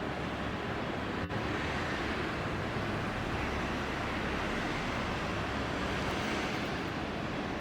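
Airbus A380's four jet engines at takeoff power, heard as a steady, even rushing noise with a short dip about a second in.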